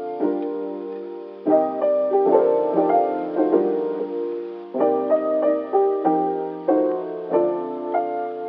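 Background music: soft keyboard chords and melody notes, each struck and left to fade.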